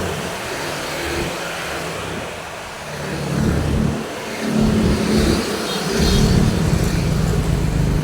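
Road traffic: cars and motorbikes passing on a busy road, engine noise swelling as vehicles go by, loudest in the second half.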